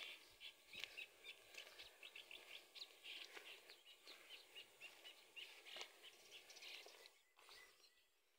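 Faint chirping of small birds, many short irregular chirps over a quiet outdoor background, dying away near the end.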